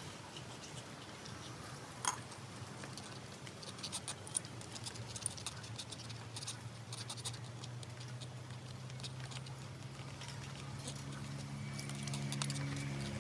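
Scattered light clicks and scrapes of hand work, with one sharper click about two seconds in, over a steady low hum.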